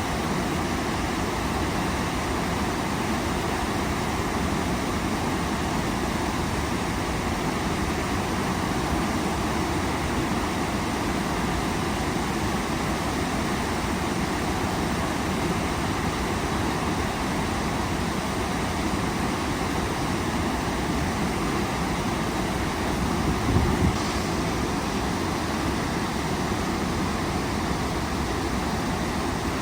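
Waterfall: water falling and rushing in a steady, unbroken roar, with a brief low bump a little over 23 seconds in.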